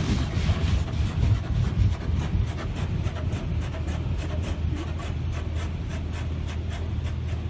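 Touch-free car wash rinse heard from inside the car: water spray hitting the car, with a steady low hum from the wash machinery. After about two seconds the spray gives way to an even pulsing, about two to three pulses a second.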